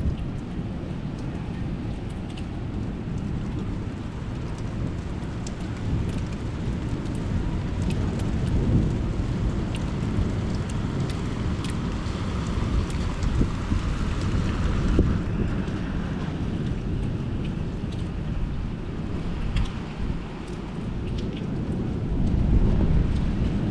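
Thunderstorm: steady rain with scattered drops ticking close by, and low rolls of thunder rumbling under it, swelling about a third of the way in and again near the end.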